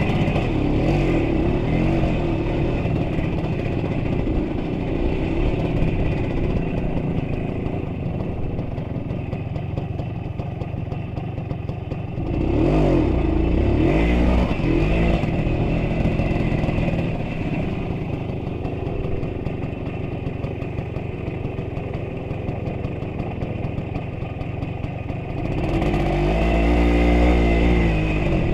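A vehicle engine running under load as it drives, with its pitch rising and falling as it revs harder about halfway through and again near the end.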